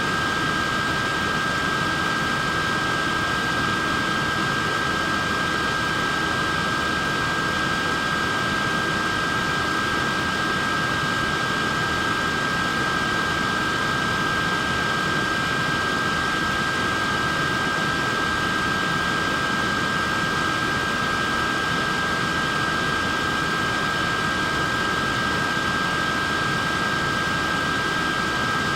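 Portable neck fan running steadily: an even rush of air with a high, steady motor whine in two close tones.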